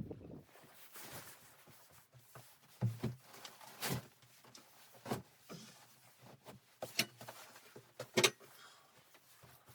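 Scattered knocks and clicks of objects being handled, about a dozen irregular hits with the loudest a double knock about eight seconds in.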